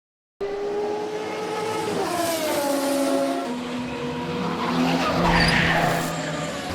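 Car engines revving in a chase sound mix, their pitch shifting and sliding down, with tyres skidding about five seconds in. It starts after a brief moment of silence.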